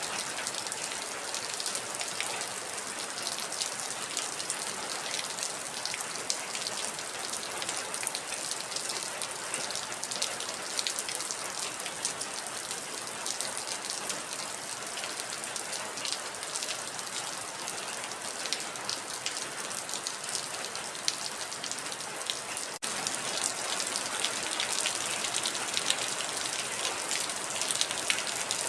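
Heavy rain falling steadily: a dense hiss full of individual drop ticks. About three-quarters of the way through there is a momentary break, where the recording is spliced, and the rain then comes back slightly louder.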